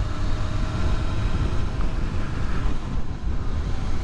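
Motorcycle cruising at highway speed: steady wind rush and road rumble, with a faint, even engine drone underneath.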